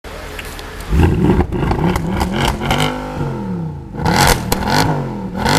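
Mercedes-Benz C63 AMG 507's 6.2-litre V8 under hard acceleration. The engine note jumps up about a second in, then climbs and drops repeatedly, eases off briefly around the middle, and pulls hard again near the end.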